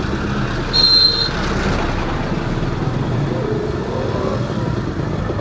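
Honda H100S two-stroke single-cylinder motorcycle engine running under way, with steady road noise and its pitch wavering as the throttle changes. A short high-pitched beep sounds about a second in.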